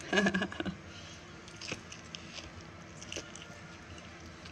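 A person biting and chewing food: a louder burst of chewing right at the start, then soft, scattered chewing clicks.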